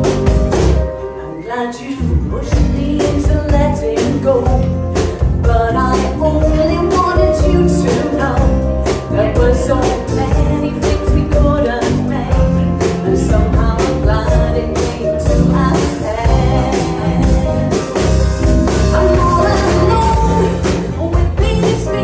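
Rock band playing a slow song with drum kit, bass and guitar, a melodic lead line gliding over a steady beat; the band drops back briefly about a second in.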